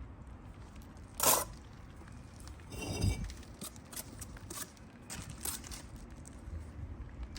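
Clinks and scrapes of bricklaying work, brick and steel tool on masonry: a sharp loud clink about a second in, a short ringing scrape around three seconds in, then several lighter taps.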